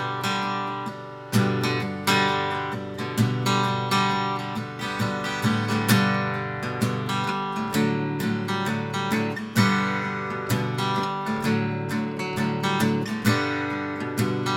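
Solo acoustic guitar strummed in a steady rhythm, playing the instrumental introduction to a song before the vocals come in.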